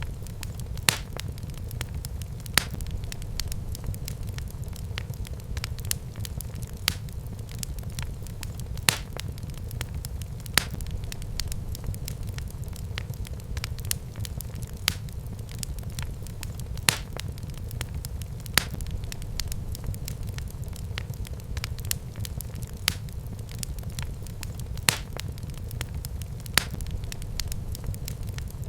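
Wood fire burning in a fireplace: a steady low rumble of the flames with sharp crackles and pops every second or two, a few of them louder snaps.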